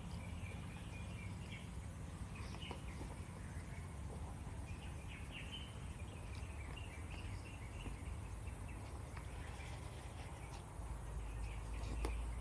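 Small birds chirping and insects calling, with short chirps scattered throughout. Underneath is a steady low rumble that grows louder about eleven seconds in.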